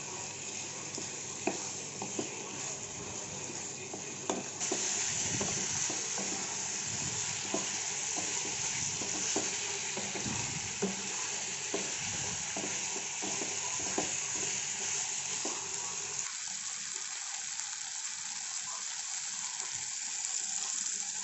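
Chicken pieces frying in oil in a kadai, a steady sizzle that grows louder about four seconds in. A spoon stirring and knocking against the pan at irregular intervals, the knocks thinning out over the last few seconds.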